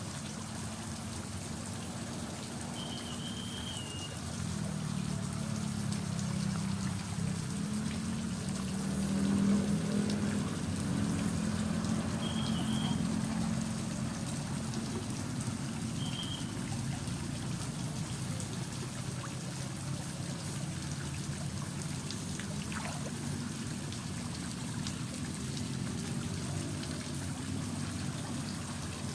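Water gurgling and trickling steadily, a little louder and fuller for several seconds about a third of the way in. A few short high chirps sound over it.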